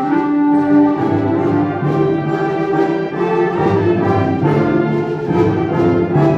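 A concert wind band playing, the brass to the fore in held chords over a bass line.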